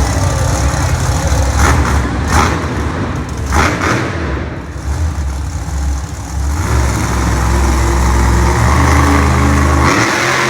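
Monster truck engine running hard and revving during a wheelie run, with a few short louder bursts in the first four seconds. It eases off around the middle, then builds again and drops away sharply near the end.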